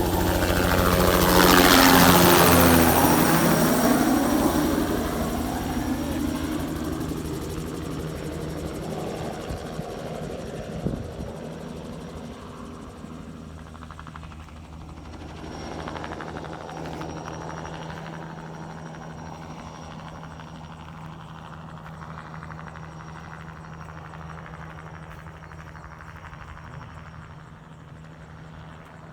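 Crop-spraying helicopter passing low and close about two seconds in, its pitch falling as it moves away, then fading to a steady distant rotor drone. A smaller swell comes about halfway through as it turns or passes again.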